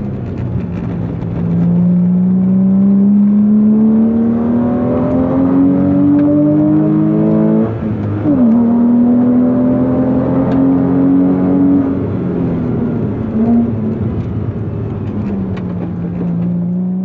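2003 Porsche Boxster S's 3.2-litre flat-six engine pulling hard, its revs climbing steadily, dropping sharply about eight seconds in as at an upshift, then climbing again. Later the revs ease off and pick up once more near the end. The engine is running healthily and sounds really good.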